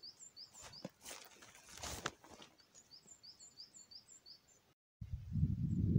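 A small bird sings a quick run of short, high, falling chirps, about five a second, while a few footsteps knock on the trail. Just before the end the chirping stops and a loud low rumbling noise takes over.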